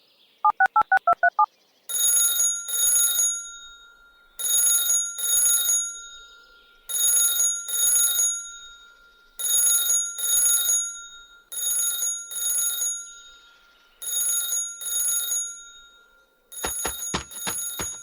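A telephone ringing in double rings, six of them about two and a half seconds apart, after a short run of keypad beeps as a number is dialled. A quick series of sharp clicks follows near the end.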